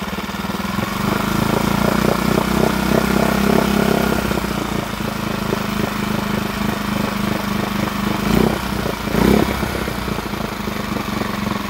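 Lehr 5 hp four-stroke propane outboard motor running steadily at idle, running well. Two brief louder swells come near the end.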